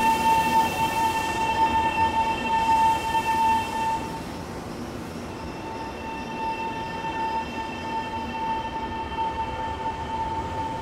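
Taiwan Railways electric train running past the platform, its rumble and hiss fading about four seconds in. Under it a steady high-pitched tone with overtones sounds, breaks off briefly, and then returns.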